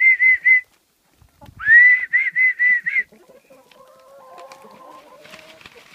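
A person whistling to call chickens in: two whistles about a second apart, each a rising note that breaks into a quick run of four or five short pulses. Faint clucking from the hens follows.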